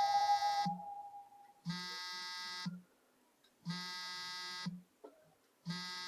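A buzzy electronic tone sounding in a regular pattern, about one second on and one second off, with a click at the start and end of each beep. A steady, higher single tone fades out about a second in.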